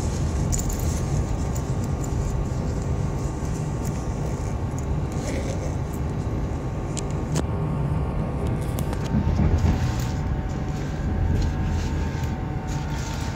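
SNCB passenger train rumbling at low speed as it arrives at the station, a steady low rumble with scattered sharp clicks.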